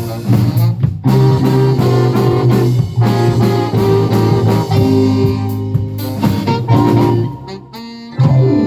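Live band playing a jazz-tinged song, with saxophone and guitar among the instruments. The band drops out briefly near the end, then comes back in full.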